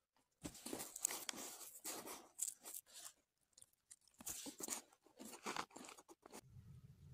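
A person chewing and biting food close to the microphone: irregular crunchy chews that stop about six seconds in.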